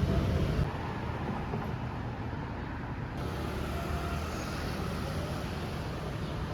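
Steady low engine rumble of a motor vehicle, dropping abruptly in level under a second in and then running on evenly.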